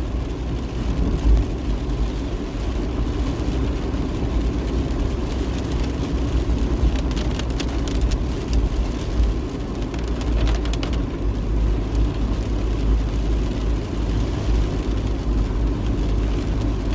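A car driving, heard from inside the cabin: a steady low drone of engine and road noise, with a few faint clicks around the middle.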